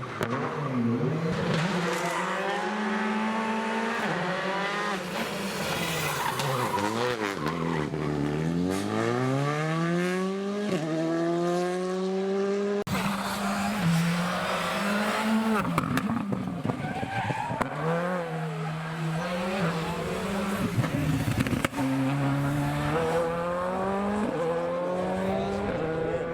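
Rally cars at full throttle on a tarmac stage: engines climbing through the gears and falling away on the lift, with tyre squeal. The sound changes abruptly twice as the clips change.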